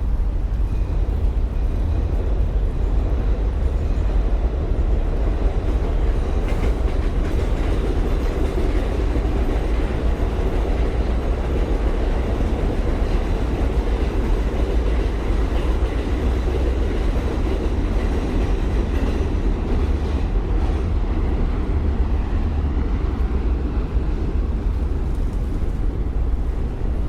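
Elevated subway train running along the overhead track, a steady, loud noise heavy in the bass with no break.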